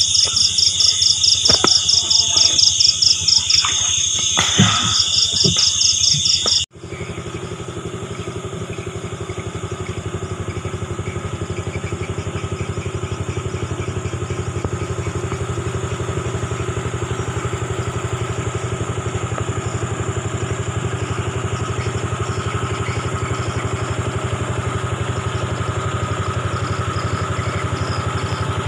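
A loud, pulsing chorus of night insects over a small engine's steady hum. About seven seconds in it cuts off abruptly, leaving the small engine running steadily on its own.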